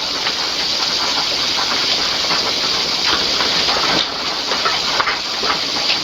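Steady rushing hiss of running water, with small faint ticks scattered through it.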